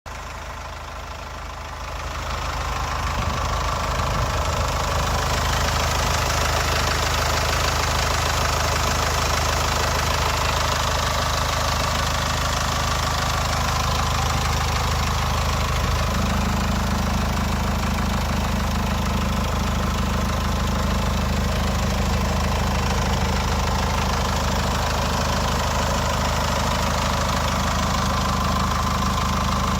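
SsangYong Korando turbo-diesel engine idling steadily. The sound grows louder about two seconds in, and a low steady hum joins it about halfway through.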